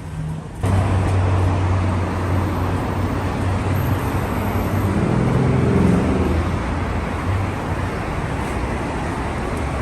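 Motor vehicle and road traffic noise: a steady low hum with road hiss that comes in suddenly about a second in.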